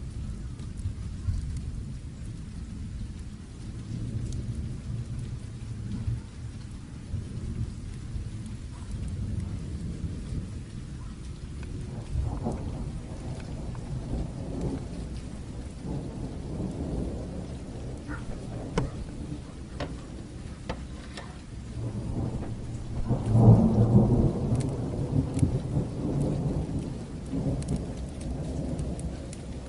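Steady rain with long rolls of low thunder, the loudest peal swelling up about two-thirds of the way through. Scattered sharp crackles of a wood fire sit on top.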